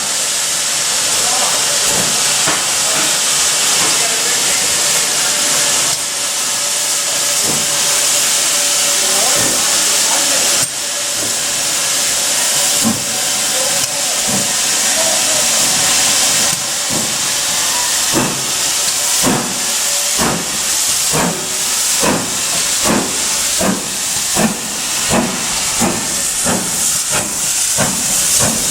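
GWR Manor class steam locomotive getting under way. Loud steam hiss, with slow, scattered exhaust beats that turn into regular chuffs over the second half, quickening as it gathers speed.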